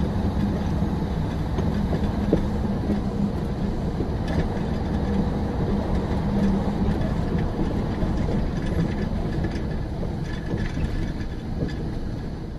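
Steady rumbling running noise of a moving vehicle, with a low hum and scattered light clicks and rattles.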